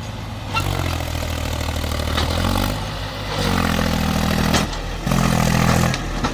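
Diesel engine of a JCB 3DX backhoe loader revving up in three surges under hydraulic load, with some clatter.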